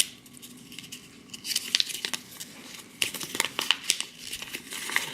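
Plastic wrapping and folded paper crinkling as they are handled, in quick irregular crackles that start about a second and a half in and go on.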